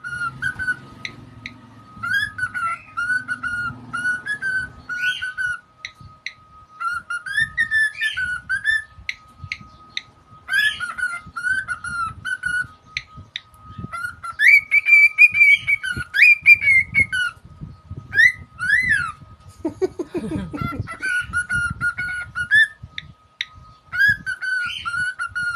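Cockatiel whistling: phrases of short, repeated whistled notes with sliding pitches, some higher held notes in the middle, over a faint steady high tone.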